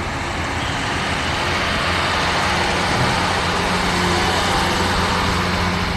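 A vehicle engine running steadily at idle, with a low, even drone under a steady hiss.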